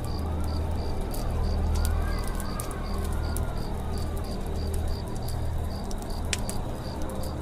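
Campfire and forest ambience: scattered crackles and pops of burning wood, a high chirp repeating about three times a second, and a dove cooing low and slow.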